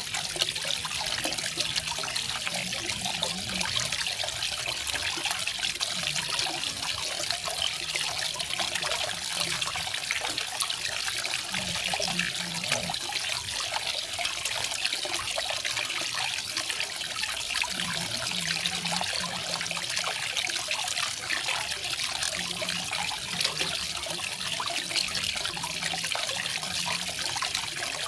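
Garden waterfall: water falling and splashing in a steady, even rush.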